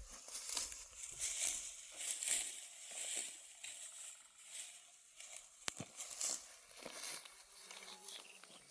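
Dry barley stalks rustling and crackling in irregular bursts as the plants are pulled up and handled by hand, with one sharp snap about six seconds in.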